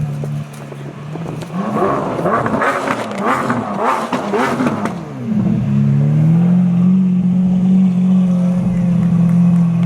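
Car engine idling, revved several times in quick succession from about one and a half to five seconds in, then settling back to a steady idle.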